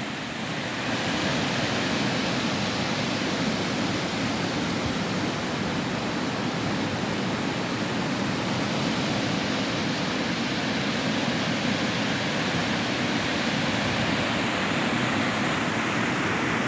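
Floodwater of the Kouga River rushing past in a steady, unbroken wash of noise.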